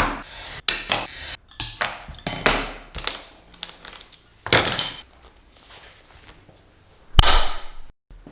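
Sheet glass being cut by hand for stained glass: scraping strokes of a glass cutter and clinks of glass pieces, then one sharp crack about seven seconds in.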